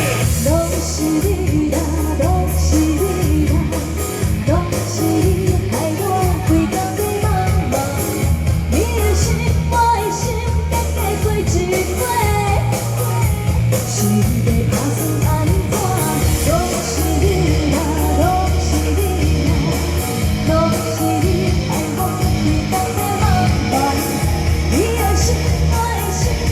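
A female singer singing a Taiwanese Hokkien pop song with a full band behind her: electric guitar, bass and drums keep a steady beat.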